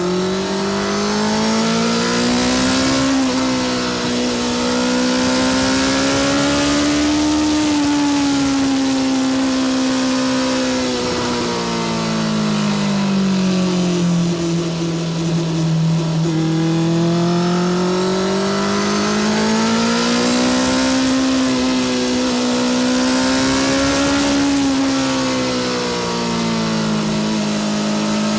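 Honda CBR650R's inline-four engine through a Spark full titanium short exhaust, under way with the engine pitch rising and falling smoothly twice as the throttle is opened and eased.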